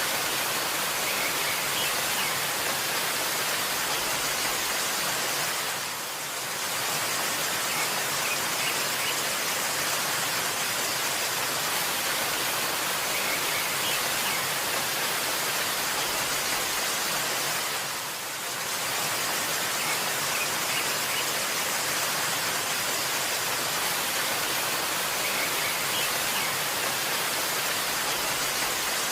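Waterfall rushing steadily, with faint high bird chirps every few seconds. The rush dips briefly twice, about twelve seconds apart.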